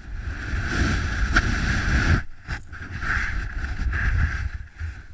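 Wind buffeting a small camera's microphone: a rough rushing noise with a heavy low rumble that swells and fades and drops out briefly a little over two seconds in.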